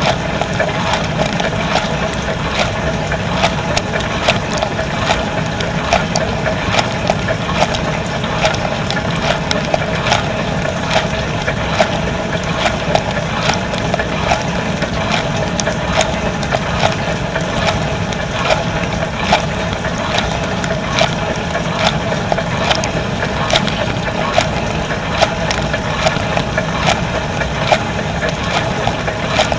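Dishwasher running inside its wash tub: a steady hum with water spraying and spattering against the walls and dishes, and many irregular sharp ticks.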